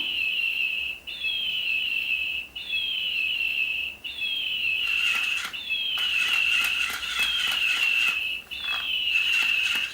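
Electronic toy bird chirping: a repeating high tweet, a short falling chirp running into a held note, about every second and a half. From about halfway, rapid clicking joins in.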